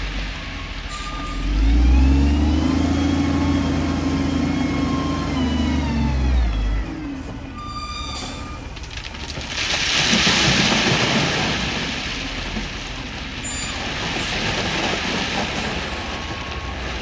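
Heavy earthmoving machine's diesel engine revving up, holding for several seconds and then dropping off, with a short beep now and then. From about ten seconds in, a broad rushing noise takes over and slowly eases off.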